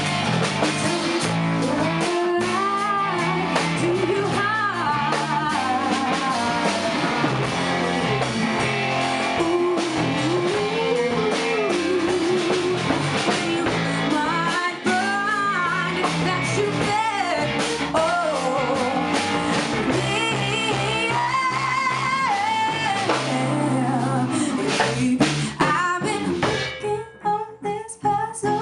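A band playing a song: a singer over guitar, bass and drums. Near the end it drops to a sparser, choppy passage.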